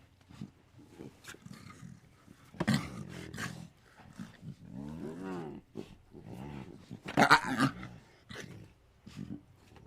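An animal calling: several pitched calls that rise and fall in pitch, and a loud harsh call a little after seven seconds in.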